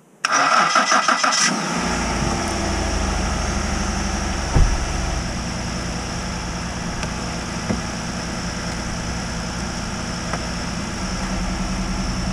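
A 2011 Ford Explorer's engine being started with jumper cables from a spare battery: the starter cranks briefly, the engine catches and settles into a steady idle. A single thump about four and a half seconds in.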